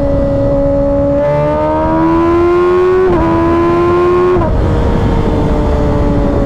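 2024 Kawasaki Ninja ZX-6R's inline-four engine cruising steadily, then accelerating from about a second in, with a quick upshift around three seconds. The pitch climbs again before dropping sharply as the throttle closes, then holds steady, with a low wind rush underneath.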